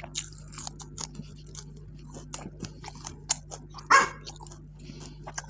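Close-up chewing and crunching of raw vegetables and food, a run of short wet clicks and crackles, with one louder, sharp sound about four seconds in.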